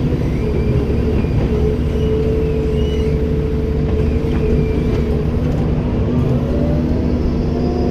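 Komatsu PC290-10 excavator's diesel engine and hydraulics running at steady revs in a constant heavy drone, with faint high-pitched squeals in the first few seconds.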